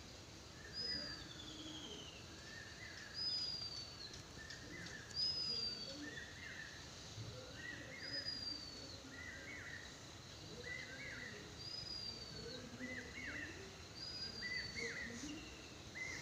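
Faint outdoor ambience with a bird calling over and over: a short, high, falling whistle about every two and a half seconds, with lower chirps in between. A few soft, brief noises stand out in the first few seconds.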